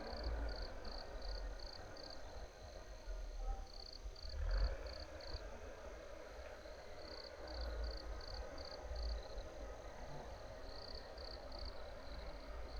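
A small animal calling in runs of short, high-pitched pips, about four a second and five to seven in a run, repeated every couple of seconds. A low rumble runs underneath.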